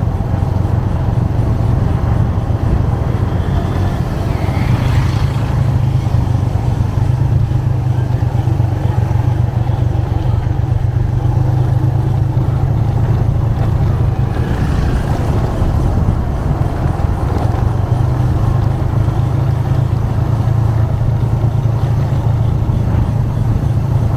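Motorcycle engine running at a steady cruise, a constant low drone over road and traffic noise, with brief higher-pitched sounds from the traffic about five and fifteen seconds in.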